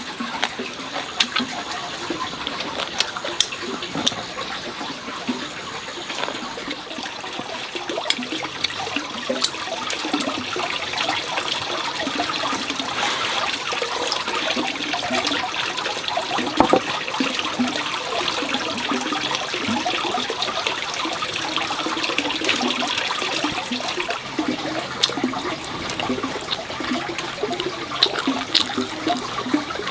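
Water gurgling and splashing steadily, with many small scattered clicks.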